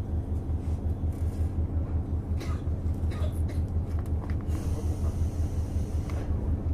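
Onboard a JR Hokkaido KiHa 150 diesel railcar: the diesel engine's low, rapidly pulsing throb with a constant hum over it, and a few faint clicks and rattles.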